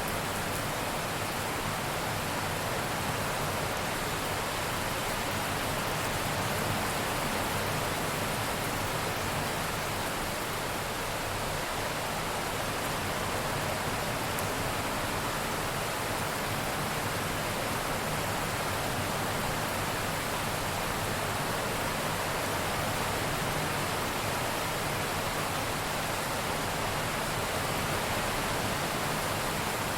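Steady heavy rain, an even hiss with no claps or rumbles of thunder.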